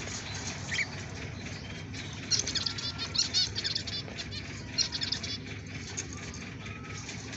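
Budgerigars chirping in quick, high-pitched bursts of short chirps, the busiest stretch a couple of seconds in and another short burst near the middle.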